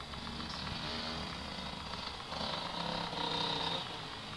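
Dirt bike engine running, a little louder for a second or so in the middle.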